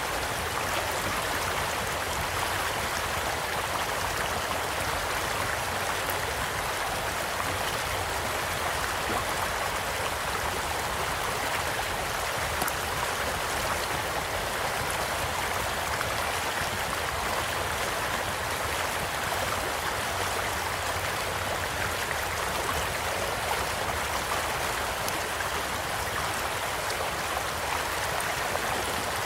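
Steady rush of a gently flowing stream, with the light crackle of a campfire as faint scattered ticks throughout.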